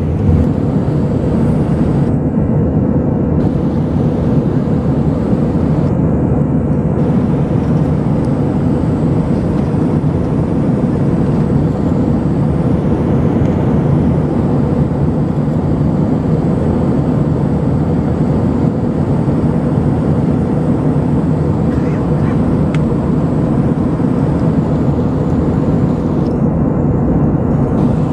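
Jet airliner in flight: a steady, loud engine and airflow noise that does not change.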